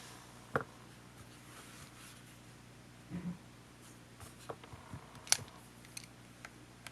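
Scattered small clicks and taps of handling during a camcorder teardown: a sharp click about half a second in, a soft knock around three seconds, then a run of light clicks, the sharpest just past five seconds, over a steady low hum.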